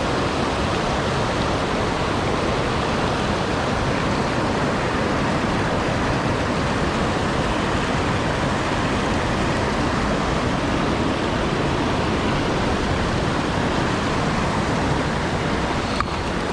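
Mountain stream rushing over rocks: a steady, full rush of water.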